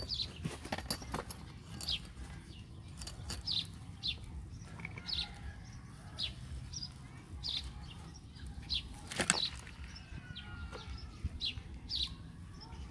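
Small birds chirping, short high notes repeating every half second or so, over a low steady rumble of outdoor background noise. A single sharp click about nine seconds in is the loudest moment.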